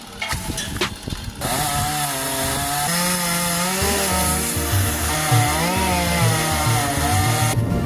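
Chainsaw starting up about a second and a half in and running, its pitch wavering as it cuts a tree branch, then cutting off abruptly near the end, over background music with a stepping bass line.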